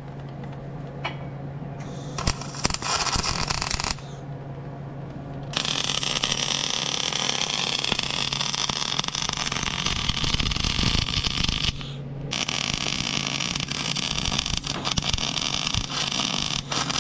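Steel being cut and ground, with scraping and a long rough grind in the middle that wavers slightly in pitch. The sound changes abruptly every few seconds.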